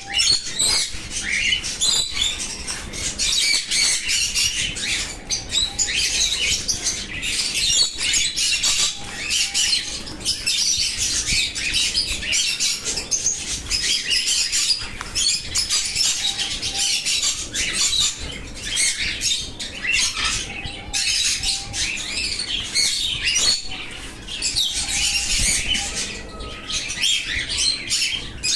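Small caged birds chirping and fluttering their wings, a busy continuous twittering with frequent quick flaps and rustles.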